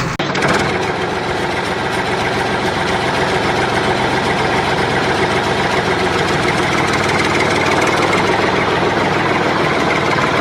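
Diesel engine of construction machinery, such as a JCB backhoe loader, running steadily with a slight knock, with a brief break just after the start.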